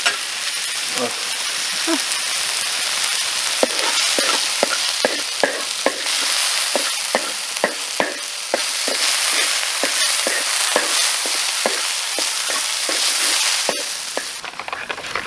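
Potatoes frying in hot oil in a pan: a steady sizzle, with a spoon clicking and scraping against the pan a couple of times a second as they are stirred. The sizzle drops off near the end.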